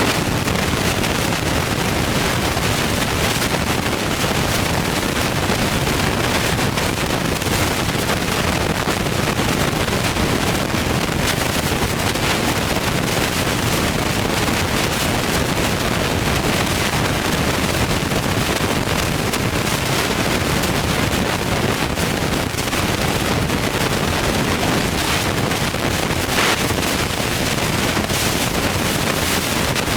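Ford Boss 302 V8 with a turbo kit running steadily on its first start, a loud, even engine noise with no change in speed.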